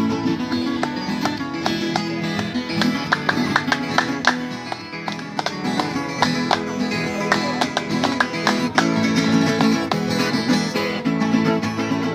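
Instrumental break of a Brazilian country song: acoustic guitar picking a quick melody over a steady strummed accompaniment, with no singing.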